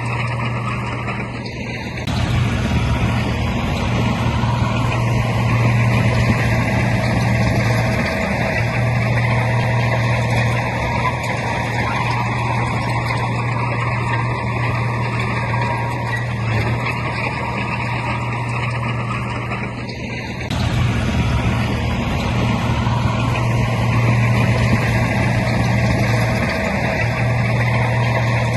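Heavy diesel engine of a bulldozer running steadily under load with a deep hum. It eases off briefly about two seconds in and again about twenty seconds in, then comes back louder each time.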